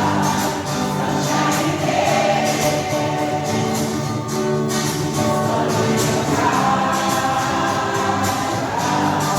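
A choir singing a gospel-style song with instrumental accompaniment and a steady percussion beat.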